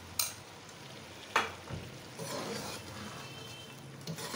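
Oil sizzling in a pot of cooking pumpkin halwa while a steel ladle stirs it, with two sharp clinks of the ladle against the pot in the first second and a half. The oil and cardamom have just been added to the sugared pumpkin.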